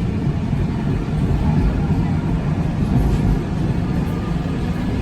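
Steady low rumble of a moving vehicle running along.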